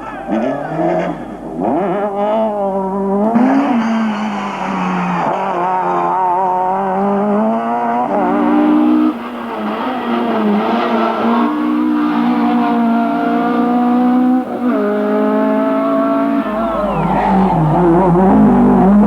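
Naturally aspirated four-cylinder rally car engine revving hard under load. Its pitch climbs and then drops sharply several times as it shifts gear.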